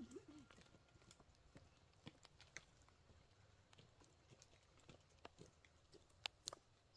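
Near silence with faint scattered clicks and taps, and two sharper clicks a little over six seconds in. A short faint wavering whine sounds at the very start.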